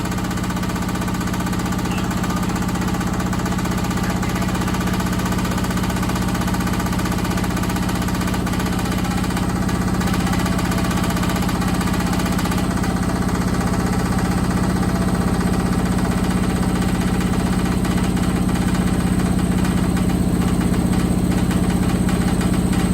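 Candy SmartTouch washing machine in a heavily unbalanced high-speed final spin: a steady motor and drum hum with rapid knocking as the out-of-balance tub shakes against the cabinet, growing slowly louder. It sounds like it's about to collapse.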